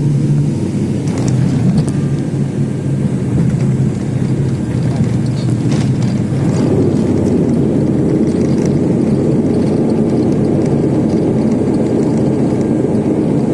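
Steady loud rumble of an airliner's engines and airflow heard from inside the passenger cabin during landing, with a few short rattles in the first half.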